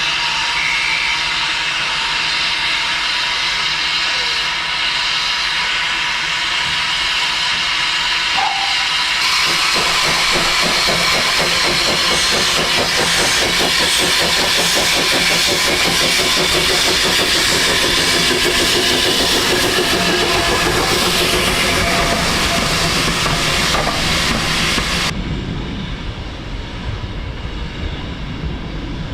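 Steam locomotive hissing steadily, growing louder and fuller about nine seconds in, then dropping sharply to a quieter low rumble near the end.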